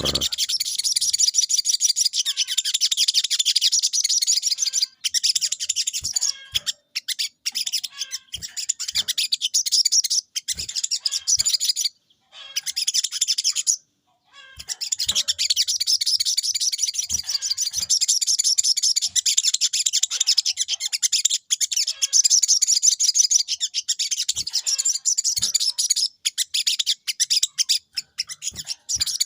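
A caged sogon songbird singing in long runs of fast, rapid-fire high twittering, broken by a few short pauses and some separate single notes. This is the persistent 'gacor' song that the keeper credits to daily sunning raising the bird's breeding drive.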